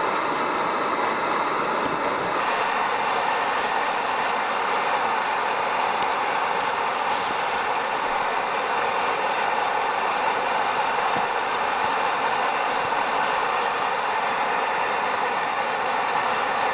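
Camping stove burner running steadily under a pot of water being heated, an even roaring hiss with a faint steady hum in it.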